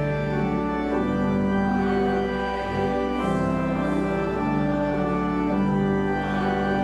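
Organ music: a church organ playing slow sustained chords that change every second or so.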